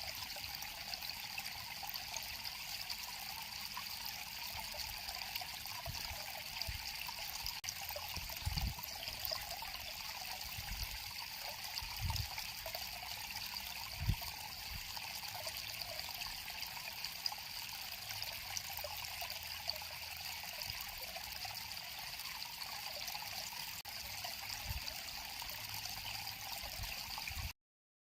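River water flowing and trickling in a steady rush, with a few soft low thumps now and then. The sound cuts off abruptly near the end.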